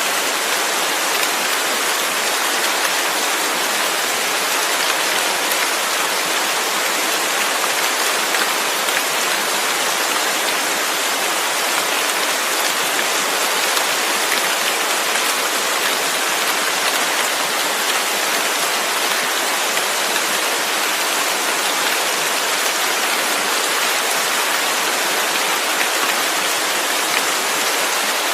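Steady, even rain falling, a constant hiss with faint individual drop patters.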